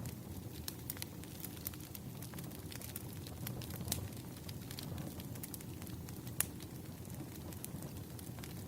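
Campfire burning: a steady low rumble of flames with irregular crackles and sharp pops of burning wood, one pop standing out loudest about six seconds in.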